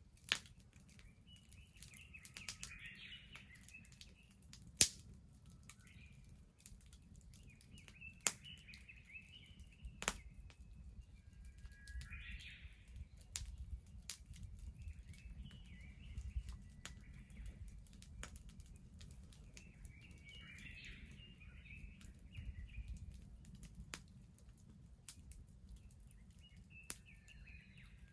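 Wood bonfire crackling, with a few sharp pops standing out, the loudest about five seconds in. A bird sings short phrases every few seconds over a low steady rumble.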